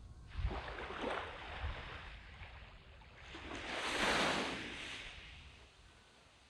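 Sea waves breaking and washing up a sandy beach: a smaller surge near the start, then a louder one about four seconds in that fades away.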